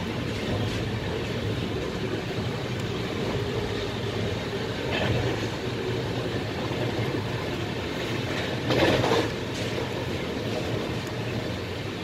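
Shatabdi Express passenger train running at speed, heard from on board: a steady rumble of the wheels on the track, with a brief louder burst of noise about nine seconds in.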